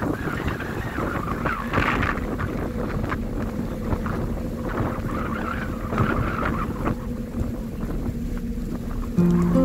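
Steady low outdoor rumble with wind buffeting the microphone. Guitar music comes in near the end.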